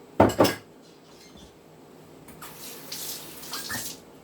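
Two sharp knocks in quick succession, then a kitchen tap runs briefly for about a second and a half.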